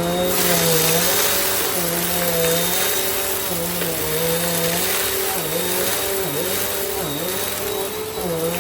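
Bissell CleanView compact upright vacuum cleaner running, a steady motor hum and airflow hiss with a thin high whine. The motor's pitch dips briefly several times in the second half.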